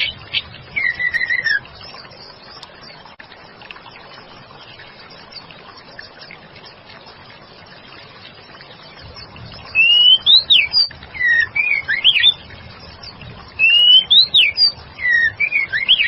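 Female white-rumped shama (murai batu) singing, with clear whistled notes that glide up and down. A few short notes come at the start. After a pause of several seconds come two similar phrases of rising and slurred whistles, a couple of seconds apart, over a steady faint hiss.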